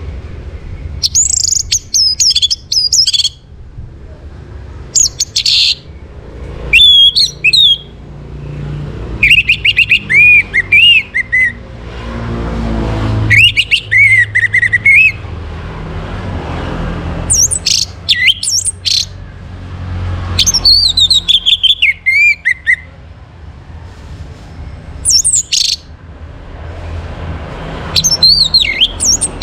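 Orange-headed thrush (anis merah) singing: about nine varied phrases of quick, gliding whistled notes, each a second or two long with short pauses between, over a low steady rumble.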